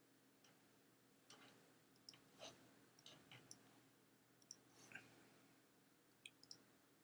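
Faint computer mouse clicks, about ten of them scattered irregularly over a quiet room tone.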